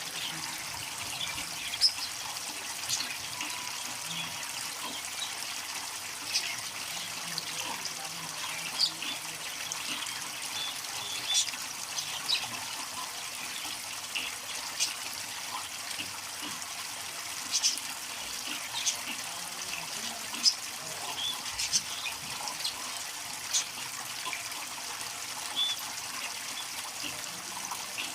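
Water trickling steadily from a DIY bird shower fed by a cooler pump, with short sharp splashes every second or so.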